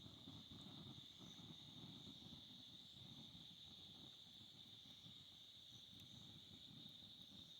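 Faint, steady chorus of crickets, a continuous high trill without break, over a low rustling rumble.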